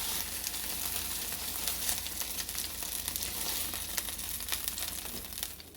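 Boneless chicken breasts frying in a pan: a steady sizzle with dense small crackling pops. The sizzle drops away shortly before the end.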